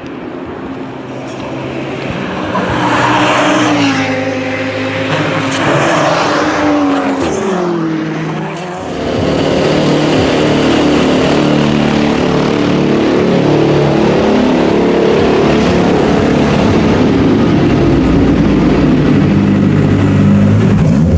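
Race car engines at the Nürburgring 24 Hours. Engine pitch rises and falls with throttle and gear changes for the first few seconds, then from about nine seconds in there is a louder, steady, dense engine sound, as of several cars running at speed.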